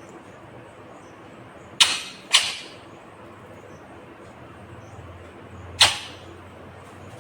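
Ringneck parakeet giving three short, harsh squawks: two in quick succession about two seconds in and a third a few seconds later, over a steady low background hiss.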